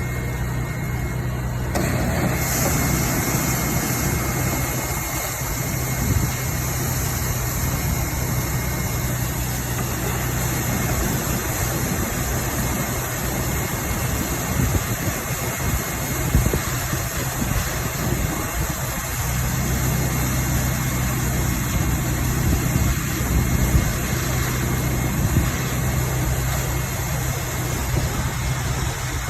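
Vacuum truck's engine running steadily, with a broad, even rushing noise joining it about two seconds in and holding.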